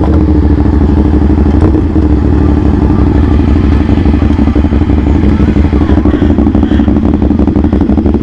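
CFMOTO 450SR S parallel-twin engine running steadily through an aftermarket AR exhaust, the engine note holding a near-constant pitch.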